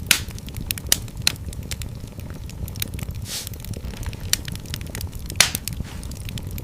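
Wood fire burning in a fireplace, crackling with irregular sharp pops over a low rumble of the flames, with a brief hiss from the fire a little past three seconds.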